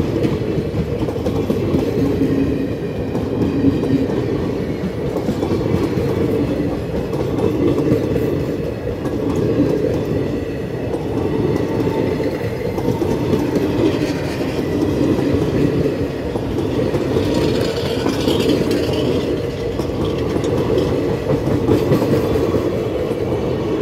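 A rake of ICF passenger coaches rolling past at speed. The wheels make a steady rumble on the rails, with a clickety-clack that swells and fades every couple of seconds as the coaches go by.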